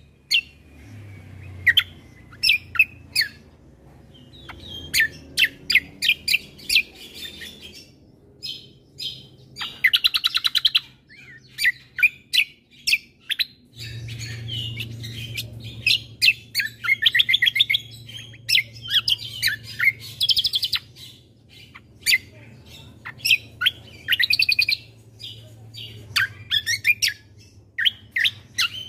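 Cucak kombo (kecial kombo) songbird singing in bursts of quick, high chirps and fast trills, broken by short pauses, over a faint low hum.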